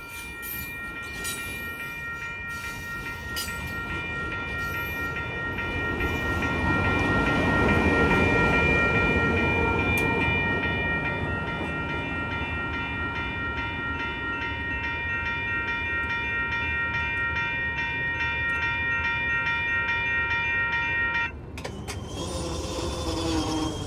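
A Capitol Corridor bilevel passenger train rolling past, loudest about eight seconds in and then fading as the train pulls away. Over it a railroad crossing bell rings steadily and cuts off suddenly about 21 seconds in as the crossing clears.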